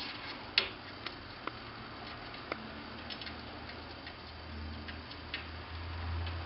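Light, irregular clicks and taps of a kitten's claws on a hard surface, the loudest about half a second in. A low hum comes up and grows louder in the last couple of seconds.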